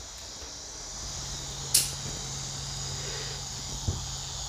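Steady high-pitched insect chorus. A sharp click cuts in about two seconds in, and a soft low knock comes near the end.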